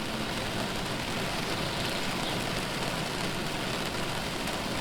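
Recording of steady rain falling, an even hiss, with the last of a low gong-like tone fading out just at the start.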